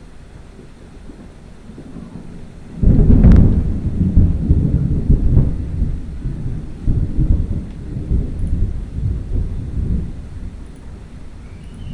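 Thunder from a nearby strike: about three seconds in, a sudden crack breaks into a loud low rumble that rolls on in uneven surges and slowly dies away.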